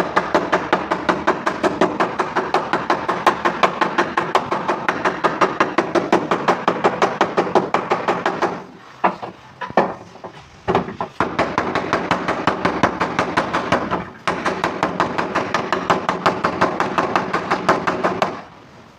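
Rapid, even hammer taps on a car's sheet-metal boot lid as a dent is beaten out, about six a second with a ringing metallic tone. The tapping pauses twice, about nine and fourteen seconds in.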